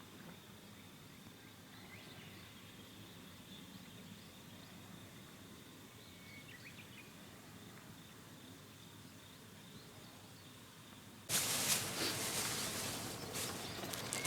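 Insects trilling steadily with a high, thin tone and a few faint chirps. About eleven seconds in, a much louder crackling, rustling noise full of sharp clicks cuts in abruptly.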